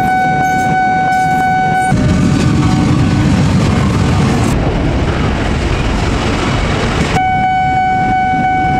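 A train horn sounds a long, steady note for about two seconds. Then it gives way to the rumble of a passing train, plausibly the diesel locomotive running by, and the same steady horn note returns near the end.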